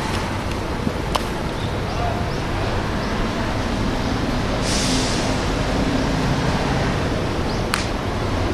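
Steady outdoor background noise with a low hum, broken by two sharp cracks, one about a second in and one near the end, and a short hiss in the middle.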